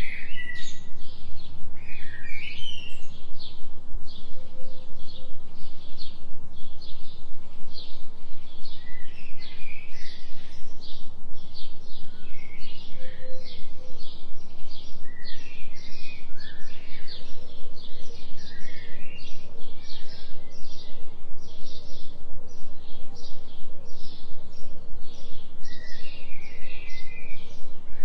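Small birds chirping now and then, over an even high pulsing about three times a second and a low steady hum, in a forest-ambience mix with a 3 Hz delta binaural tone.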